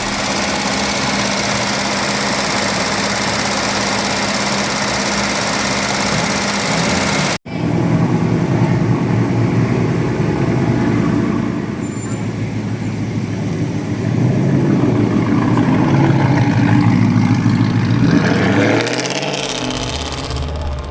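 Car engines running, with a brief dropout about seven seconds in. After it comes a lower, rougher engine sound that rises in pitch near the end.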